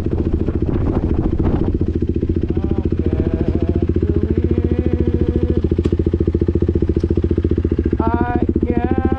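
KTM RC 390's single-cylinder engine with an SC Project exhaust, running under way with an even, rapid exhaust pulse. A wavering higher tone rides over it toward the end.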